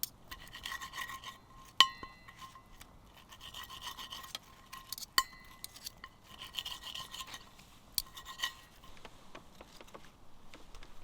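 Repeated short scraping strokes of metal rubbing on metal, with sharp metallic clinks that ring briefly, the loudest about two seconds and five seconds in.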